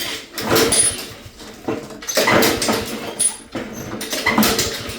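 Honda-powered lawnmower being pull-started, about three hard yanks of the recoil starter cord cranking the engine without it firing; the fuel valve is shut, which the owner takes for a reason it won't start.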